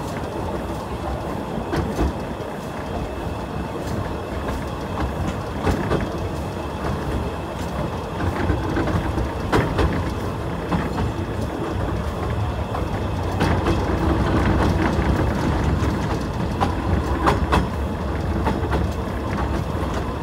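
Narrow-gauge heritage train running, heard from aboard: a steady rumble of wheels on track with sharp clicks about every four seconds as the wheels cross rail joints.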